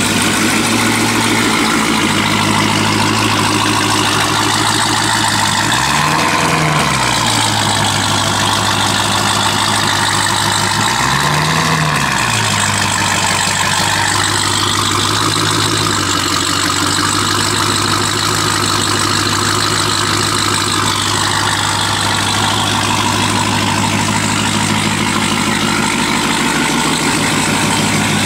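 A car engine idling steadily, with two short revs, one about six seconds in and one about eleven seconds in.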